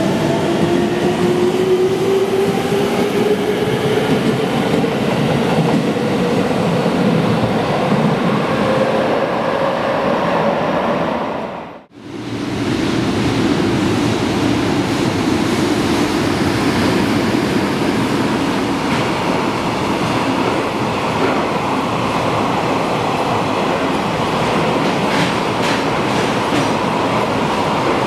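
A JR East 205-5000 series electric commuter train pulls away, its inverter-driven traction motors giving a whine that rises steadily in pitch as it accelerates. After an abrupt cut about twelve seconds in, a JR Freight EH500 locomotive and its container wagons pass with a steady rail rumble and wheel clatter over the rail joints.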